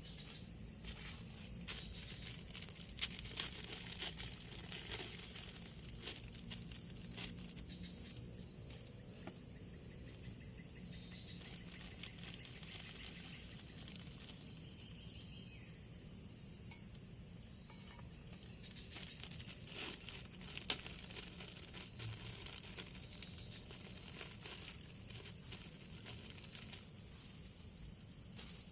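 Forest insects keeping up a steady high-pitched drone, with scattered sharp clicks and taps: a few about three to four seconds in and a single louder one near twenty-one seconds.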